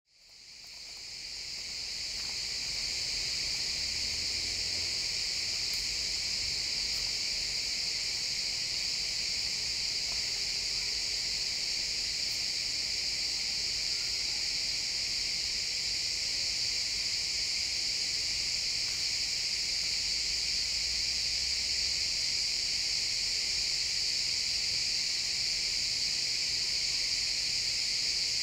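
Dense chorus of crickets chirping, a steady, unbroken high-pitched trill that fades in over the first couple of seconds.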